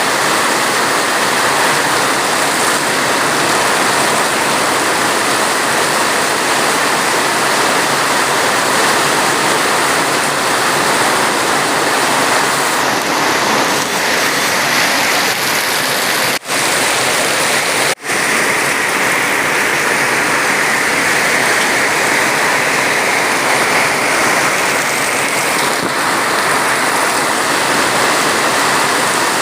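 Steady rain, an even rushing hiss that holds at one level, broken twice by very short gaps a little past the middle.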